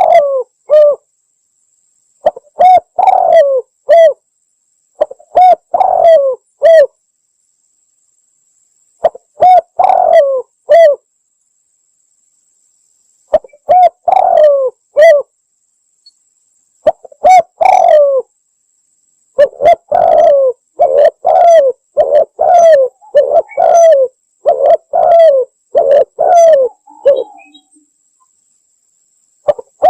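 Spotted dove (tekukur) cooing, played as a lure call: short phrases of a few coos each, separated by pauses of a second or two. Past the middle it becomes a longer run of rapid coos lasting several seconds.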